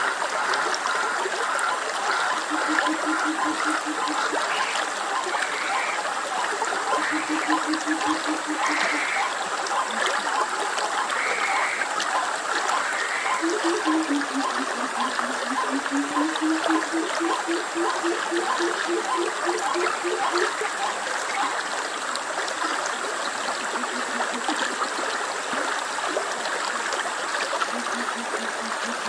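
A stream flowing and trickling steadily. A few low, buzzing trills sound over it, about three seconds in, about seven seconds in, and then a longer one near the middle that dips in pitch and rises again.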